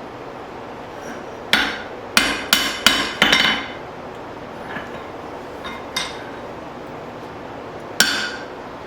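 Blacksmith's hand hammer striking a steel hammer head on the anvil with a metallic ring: a quick run of about five blows a little over a second in, two faint taps, then one more blow near the end. These are light clean-up and straightening blows.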